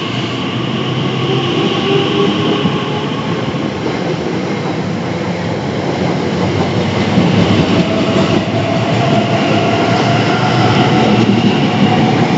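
Electric passenger train running along the track, a steady rush of wheel and rail noise that grows louder, with an electric motor whine rising slightly in pitch in the second half.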